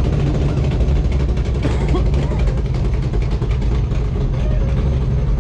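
Car engine idling with a steady low rumble, with people talking in the background.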